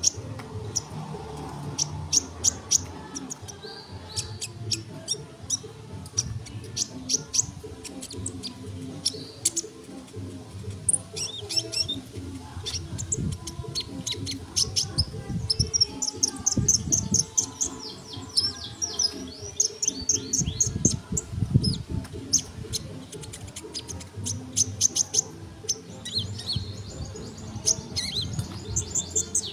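Sunbird singing energetically: a long run of quick, high-pitched chirps and twittering trills, with the densest rapid trills around the middle and again near the end.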